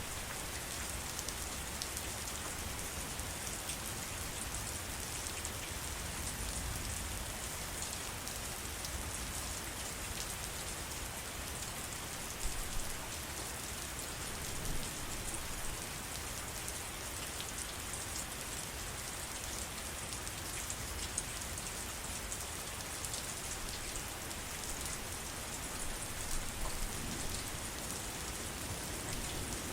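Steady heavy rain falling on surfaces, a dense even hiss with scattered individual drop hits and a low rumble underneath.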